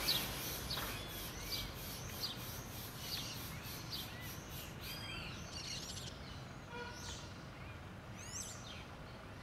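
Small birds chirping: many short, arched chirps repeating, with a quick run of falling notes near the end. A faint, evenly pulsing high hiss fades out about halfway through.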